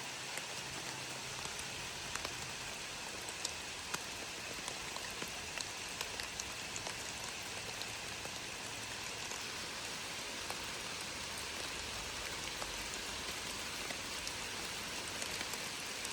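Steady rain falling, with individual drops clicking close by now and then.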